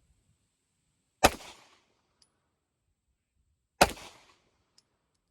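Two shots from a 9mm Ruger pistol, about two and a half seconds apart, each with a short echo fading after the crack.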